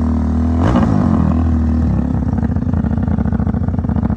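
Drag-racing motorcycle engines running hard: a steady held note, a sudden jump in sound and shifting pitch under a second in, then a fast, even pulsing beat.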